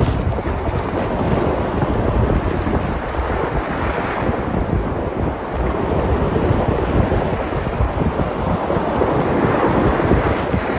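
Sea surf washing and breaking onto the shore in a continuous rush that swells slightly now and then, with wind buffeting the microphone.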